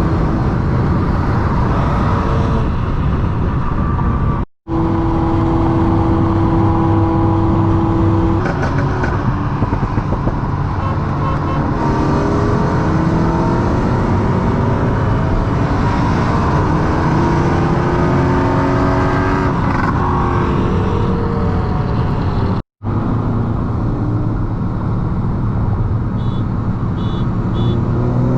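Car engine running hard and accelerating, its pitch climbing and falling through the gears, over heavy road and wind noise. It is heard in three separate stretches with abrupt cuts between them.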